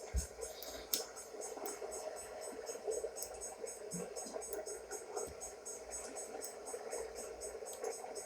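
Faint, steady rolling noise of a BNSF auto-rack freight train passing.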